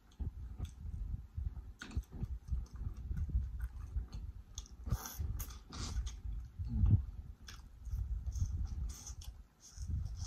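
Close-miked biting and chewing of sauce-covered corn on the cob, with irregular wet smacks and clicks of the mouth.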